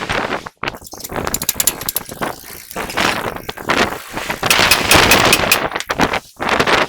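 Bursts of rapid mechanical rattling from tool work on a truck wheel, two main runs with pauses between.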